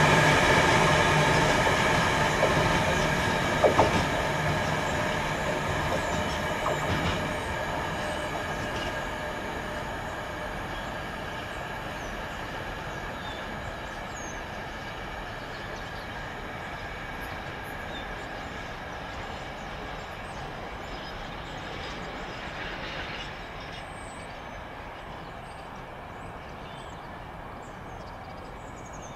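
Freight train of empty stone wagons hauled by a Class 66 diesel rolling past and away, wheels on the rail giving a steady high squeal, with a couple of clanks about 4 and 7 seconds in. The sound fades steadily as the train recedes.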